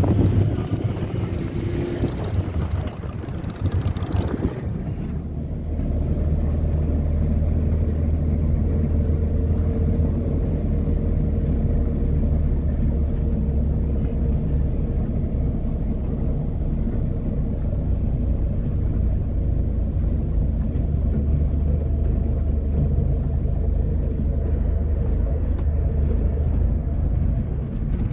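A car engine running with a steady low drone, uneven for the first few seconds and then holding an even note.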